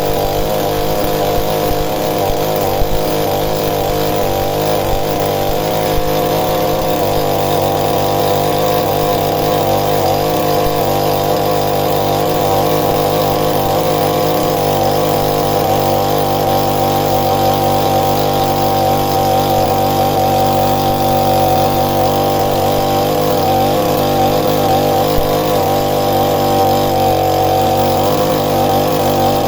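Two-stroke chainsaw engine running steadily at high speed, its pitch wavering slightly, with a small dip near the end.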